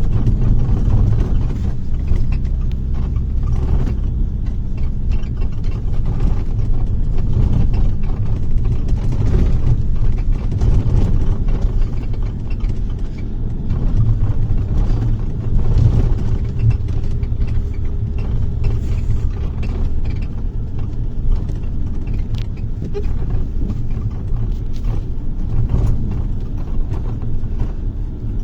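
Bus interior while driving: a steady low rumble of engine and road noise, with scattered rattles and knocks from the bodywork.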